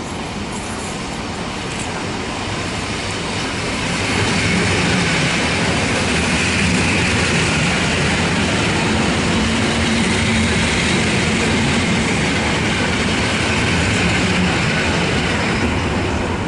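EN57AL electric multiple unit moving through the station on a shunting move. It grows louder about four seconds in, stays steady, and eases off near the end.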